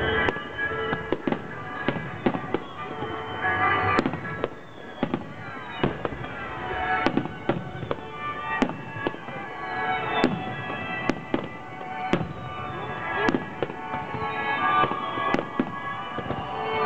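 Fireworks display: a rapid series of sharp bangs, about one or two a second, over music.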